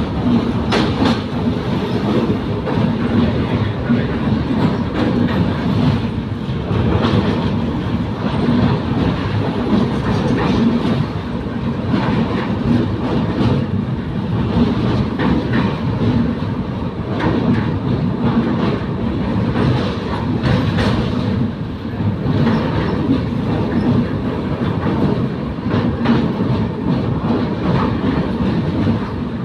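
Train running over a rail bridge: a steady loud rumble of the wagons with the wheels clicking over the rail joints throughout.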